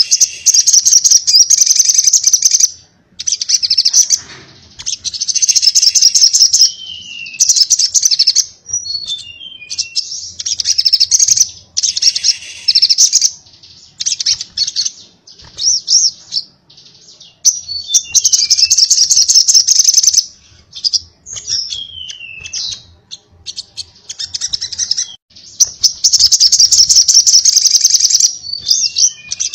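Sogok ontong (crimson sunbird) singing in rapid, high, buzzing trill phrases of one to two seconds each, broken by short gaps and quick falling chirps. This is the fast 'konslet' style of song that keepers prize.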